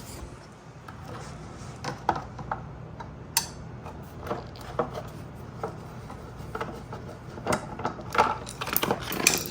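Scattered light clicks and knocks of plastic and metal as the last screw is worked out of the plastic body cover of a Razor MX125 electric kids' motorcycle. The clicks come more often near the end. A steady low hum runs underneath.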